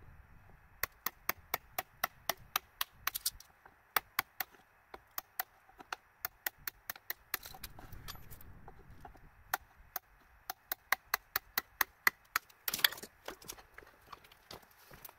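Hammer striking a chisel in quick sharp taps, about four a second, in runs with short pauses. There is a brief noisier scrape near the end.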